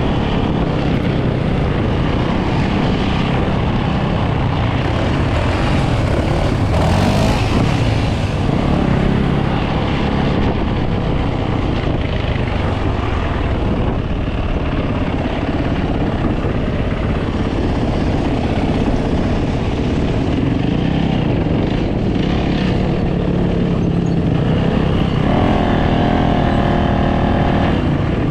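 Dirt bike and ATV engines running and revving together, loud and continuous, with engine notes rising and falling as they pass.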